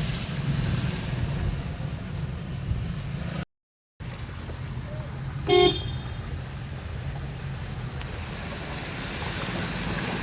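Steady low engine rumble with wind noise on the microphone, and a short horn toot a little past halfway. The sound cuts out completely for about half a second near the middle.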